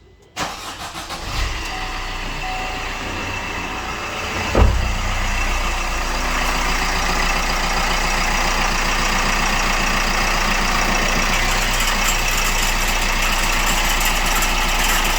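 Diesel engine running steadily, cutting in abruptly about half a second in, with one heavy thump about four and a half seconds in. The owner hears a strange noise in it that he can't identify.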